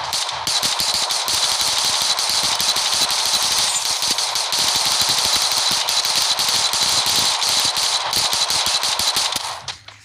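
Heavy rainstorm: a dense, steady rush of pouring rain full of sharp ticks from drops. It cuts off abruptly near the end.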